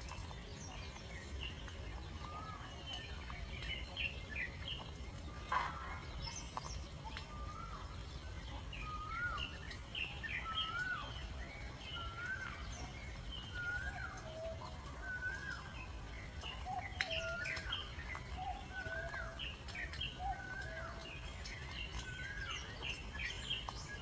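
Birds chirping: a run of short squeaky notes, about two a second, with higher chirps scattered over them, against a low steady rumble.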